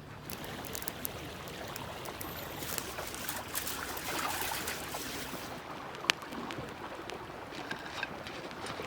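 Outdoor ambience: a steady rush of noise like running water, with scattered small clicks and one sharp click about six seconds in.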